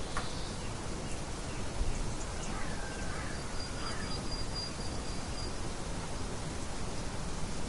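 Nature ambience recording: birds chirping a few times near the middle over a steady hiss, with a thin high note held for about two seconds.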